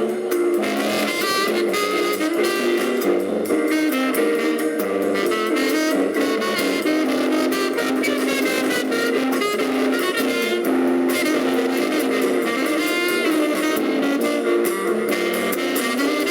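Live jazz band playing a tune, steady and unbroken.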